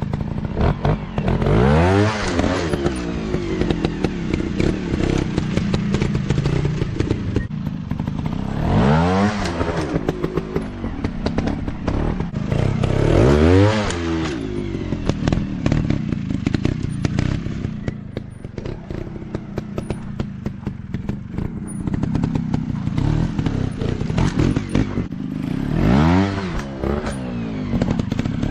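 Off-road motorcycle engines running and revving hard, the pitch climbing and dropping in quick surges about four times, over steady rattling from the bikes working across rough ground.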